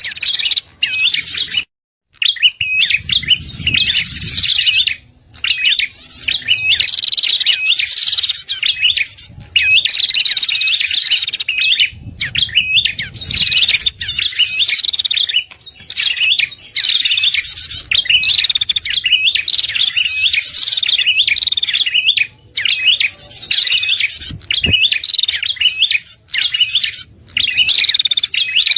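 Lure recording of red-headed prenjak calls: fast, repeated chirping phrases in bursts of a second or so, broken by short gaps, with a faint steady high whine beneath.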